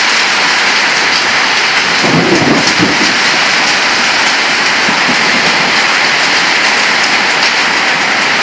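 Heavy rain pouring steadily during a storm, a dense hiss throughout, with a brief low rumble about two seconds in.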